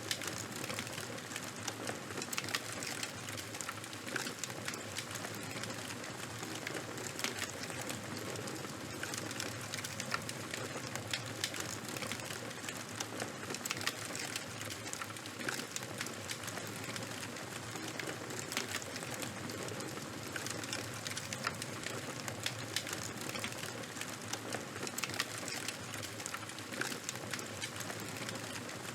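Fire crackling: a steady hiss with frequent small, irregular snaps and pops.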